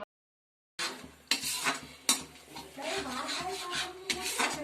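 Spoon scraping and knocking against a cooking pot as curry gravy is stirred, in irregular strokes. It starts abruptly after a moment of dead silence.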